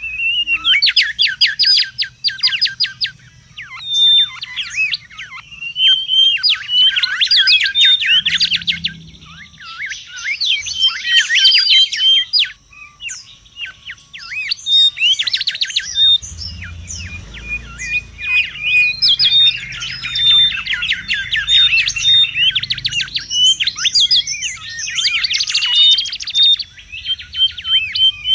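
Mangrove whistler (kancilan bakau) calling busily: phrase after phrase of fast, sweeping whistled notes mixed with short steady whistles, with brief pauses between phrases.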